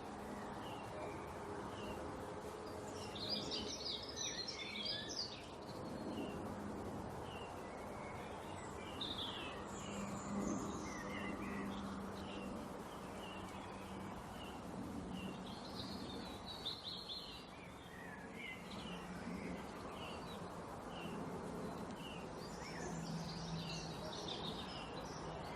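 Small songbirds chirping: short repeated chirps with bursts of rapid twittering several times, over steady background noise with a low hum.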